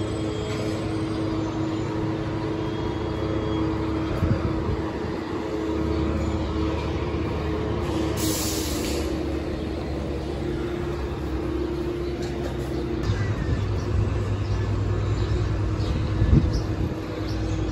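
Metrolink commuter train at a platform: a steady locomotive engine hum and rumble, with a short burst of air hissing about eight seconds in and a sharp knock near the end.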